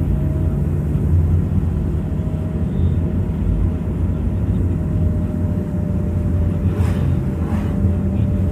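Steady vehicle engine and road rumble heard while travelling, with two brief hissy bursts about seven seconds in.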